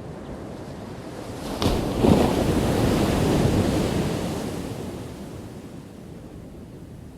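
A single ocean wave breaking on the shore. The surf swells about a second and a half in, crashes sharply around two seconds, then washes up and fades away over the next few seconds.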